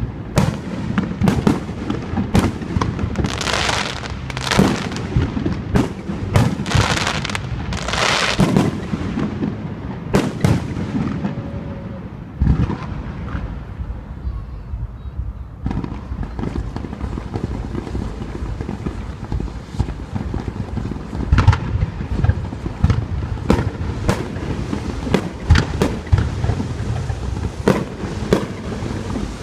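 Aerial fireworks display: a rapid series of bursting shells and low booms, with long crackling bursts in the first third and a short lull a little before halfway.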